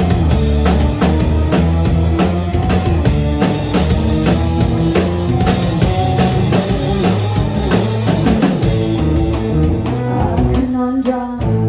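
Live rock band playing an instrumental passage on drum kit and guitar, with a short break near the end where the low end drops out for about a second before the full band comes back in.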